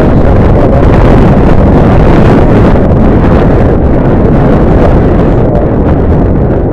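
Strong wind buffeting the camera's microphone: a loud, steady rumbling rush with no break.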